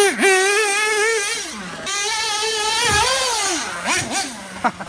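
Small nitro glow engine in an RC truggy running at high revs: a high-pitched buzz that wavers quickly in pitch, then rises and falls once more with the throttle about three seconds in.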